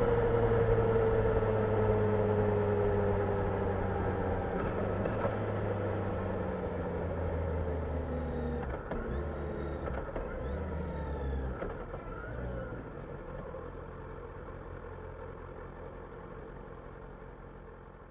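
Kawasaki Ninja 1000SX inline-four engine running at low revs, its pitch sliding down as the bike slows. It drops to a quieter, lower note about 12 seconds in, and the whole sound fades away steadily toward the end.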